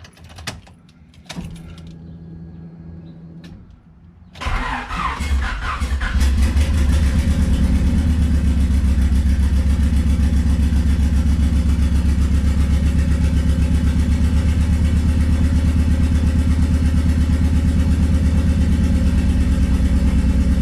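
Keys jangle in the ignition. About four seconds in, a Honda D15B2 four-cylinder engine cranks and catches, then settles within two seconds into a steady idle with a regular pulse. The plugs are fresh, fitted to chase a slight misfire that the owner is still trying to trace.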